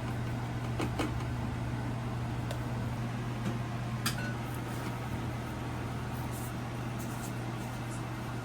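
A cooking fire crackling, with a few sharp pops over an even hiss and a steady low hum underneath.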